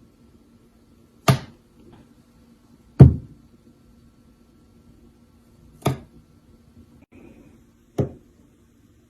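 Four sharp knocks or bangs, spaced unevenly about two to three seconds apart, each dying away quickly.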